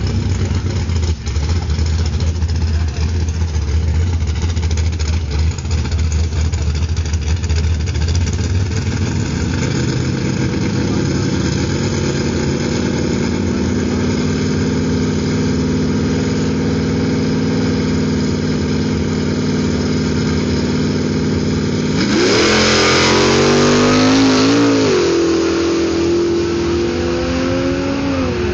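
Drag-racing car engines running steadily on the start line, the revs creeping up. About 22 seconds in they launch: a sudden loud burst of engine noise rising in pitch, dropping at a gear change and climbing again as the cars pull away.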